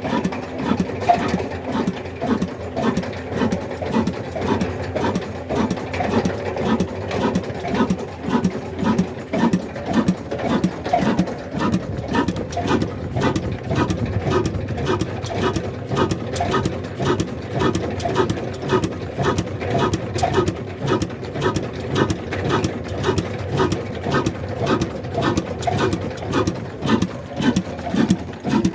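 Old black desi diesel engine, a slow-speed single-cylinder stationary engine, running steadily with an even, regular beat of a few strokes a second.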